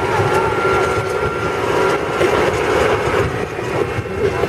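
Steady engine and running noise of a farm tour truck, heard from aboard during the ride.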